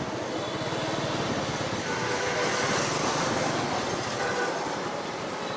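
A motorcycle's engine runs steadily under way, mixed with a continuous rush of wind and road noise.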